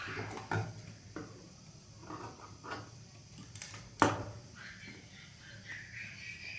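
Scattered light knocks and clatter of objects being handled, with one sharp knock about four seconds in.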